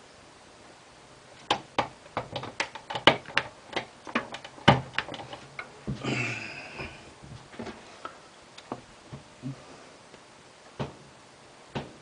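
Sharp clicks and knocks of tools and parts being handled on a bench: a quick run of them in the first half, a brief scraping rustle, then a few scattered clicks. No motor is running.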